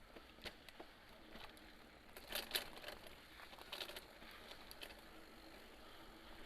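Mountain bike rolling over a dirt forest trail: scattered clicks and rattles from the tyres and frame, the loudest cluster about two and a half seconds in.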